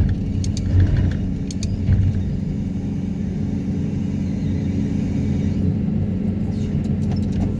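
Excavator diesel engine and hydraulics running steadily under load while working a vibro hammer to pull steel sheet piles, a low, even drone with a couple of swells in the first two seconds.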